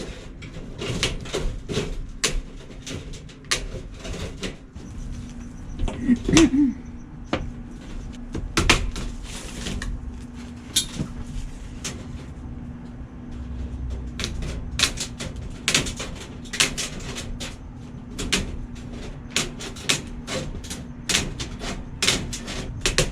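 Hand metal cutters snipping through quarter-inch metal wire mesh: a long series of sharp, irregular clicks, one for each bite through a wire.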